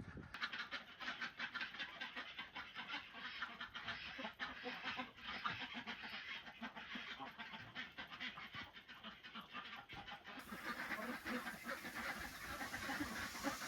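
A group of ducks chattering in a continuous run of short, soft quacks.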